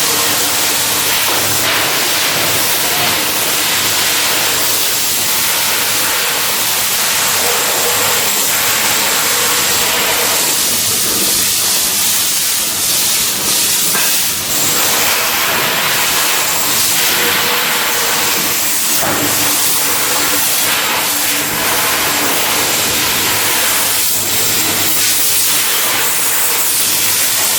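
Loud, steady hissing noise that runs on without a break, with small dips in level now and then.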